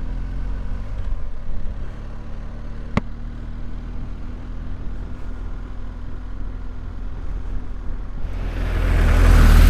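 BMW motorcycle engine running at low revs as the bike rides off, with one sharp click about three seconds in. Near the end, wind noise rushes in over the microphone and grows loud as speed builds.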